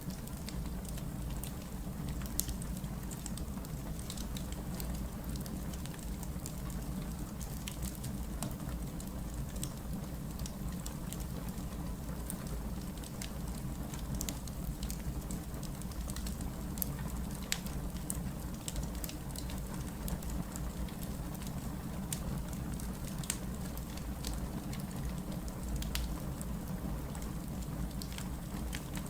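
Wood fire burning: a steady low rumble with many sharp crackles and pops scattered through it.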